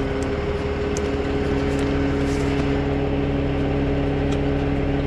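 Truck engine idling steadily, with a few faint light clicks on top.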